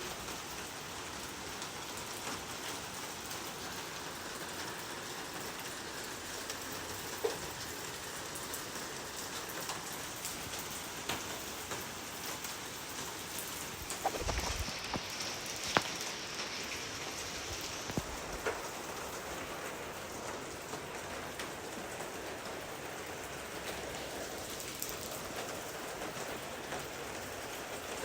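Steady rain falling, an even hiss with individual drops striking here and there. A few louder drop hits come in the middle.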